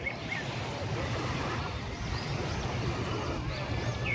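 Sea surf washing on the shore with wind buffeting the microphone, a steady rushing noise with a low rumble.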